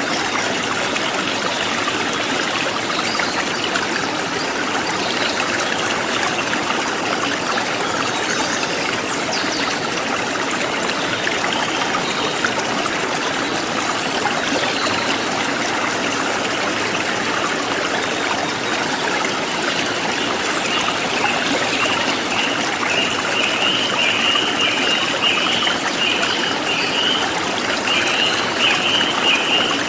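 Forest stream flowing steadily. About two-thirds of the way in, a bird joins with a rapid series of short repeated chirps.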